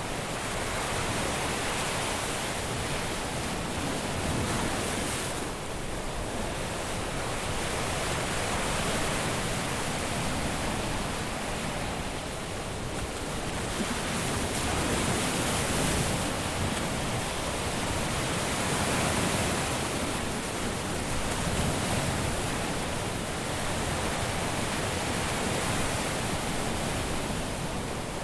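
Caribbean surf breaking and washing on a beach, a continuous wash of water that swells and eases every few seconds as waves come in.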